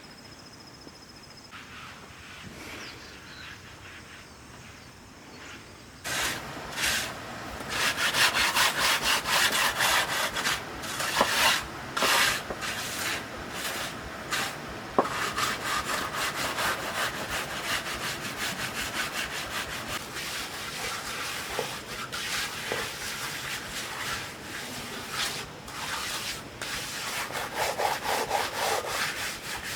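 A hand tool scraping in rapid repeated strokes, starting suddenly about six seconds in after a quieter stretch and then running on at a fairly even pace.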